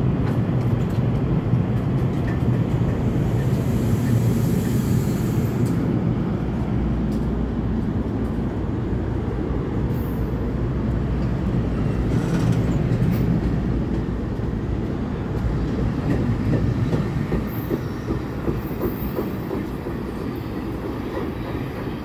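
NJ Transit Bombardier bilevel commuter train pulling out, its cars rolling past close by with a steady deep rumble that grows quieter over the last few seconds as it draws away.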